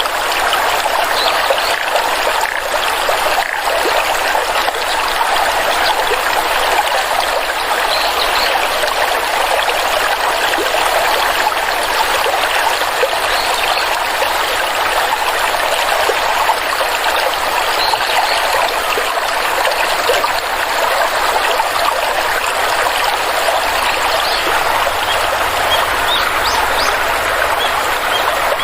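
Stream water flowing and trickling steadily, a constant even rush.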